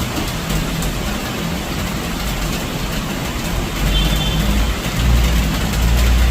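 Storm rain and gusting wind, a steady loud hiss, with a low rumble that swells from about five seconds in.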